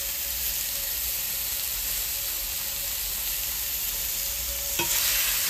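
Thin-sliced steak and mushrooms sizzling steadily in a cast-iron skillet. A single sharp click near the end, after which the sizzle gets a little louder.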